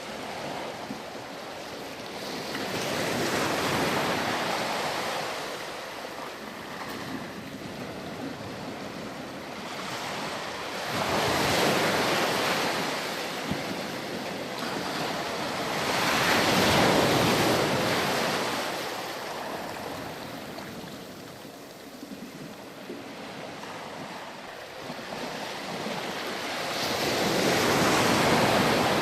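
Ocean waves washing onto a beach: the surf swells and recedes in slow surges, four breaking washes about every five to ten seconds over a steady hiss.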